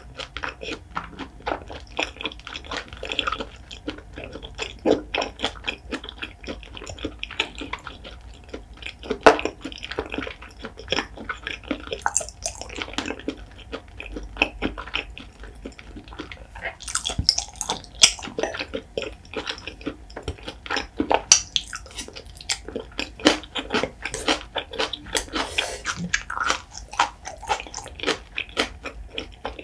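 Close-up wet chewing and lip-smacking of soft raw seafood: a dense, irregular run of moist clicks and squelches from the mouth.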